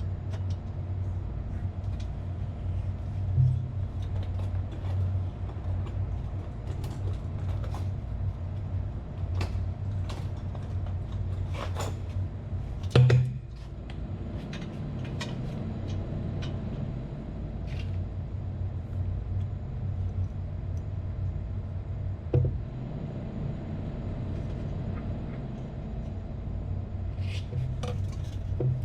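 Metal tools and parts clinking and knocking as they are handled, with three louder knocks, over a steady low machinery hum.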